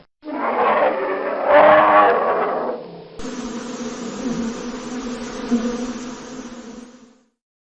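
A loud, drawn-out animal call lasting about three seconds, then a cut to a steady buzzing drone that stops near the end.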